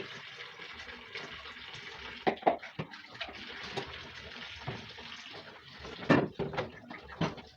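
Water running from a kitchen tap into a sink, with a few louder knocks and splashes as tomatoes are handled for washing.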